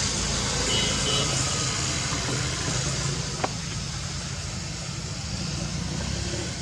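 Steady low mechanical hum with a hiss over it, and one sharp click about three and a half seconds in.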